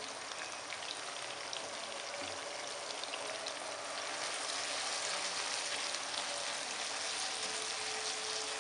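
Chicken and vegetable pieces sizzling and bubbling in oil and water in a pan: a steady crackling hiss that grows a little louder about halfway through as a spatula stirs them.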